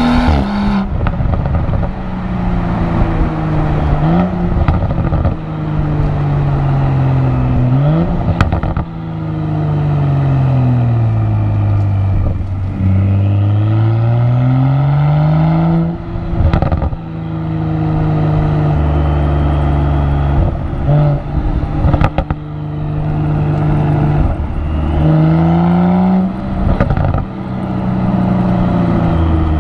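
BMW X4 M40i's turbocharged straight-six engine and exhaust under hard acceleration. The pitch climbs and then drops sharply at upshifts about 4 and 8 seconds in, and winds down slowly before building again. Several sharp exhaust pops and cracks come through the engine sound.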